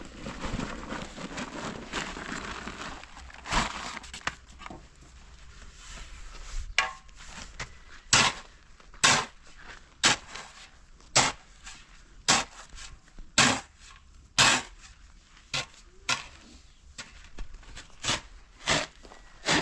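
Repeated blows from a hand tool in construction work, about one strike a second from about eight seconds in, each with a short ring. Before them comes a stretch of scraping and rustling.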